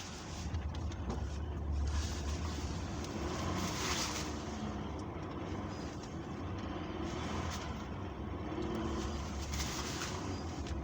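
Vehicle driving through snow: a steady low engine rumble, with brief bursts of hiss about four seconds in and again near eight seconds.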